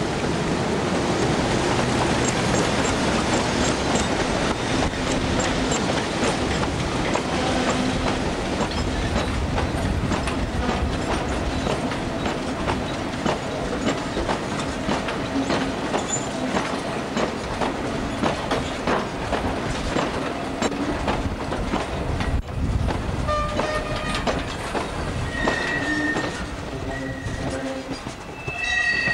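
A train rolling past, its wheels clattering over the rail joints in a steady run of clicks. In the last few seconds short high squealing tones come and go.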